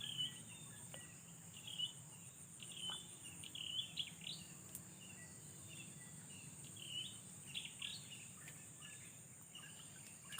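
Steady high-pitched insect drone, with short bird chirps coming and going throughout.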